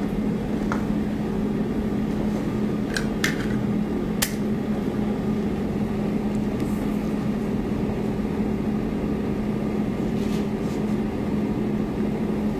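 Steady electrical or mechanical hum, like a fan or motor running, with a few light clicks and taps scattered through it.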